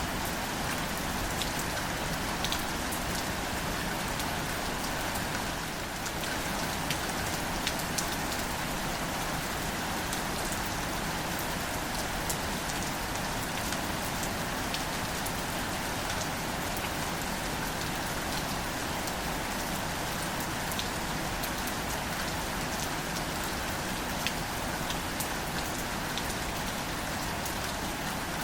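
Gentle steady rain falling on wildflowers and their leaves, with many separate close drops ticking here and there.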